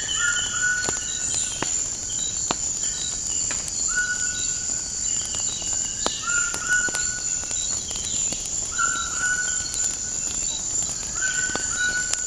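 Nature ambience mixed with a crackling wood fire. A bird repeats a short whistled call about five times, with a steady high insect drone behind it and the sharp pops and clicks of burning wood scattered through.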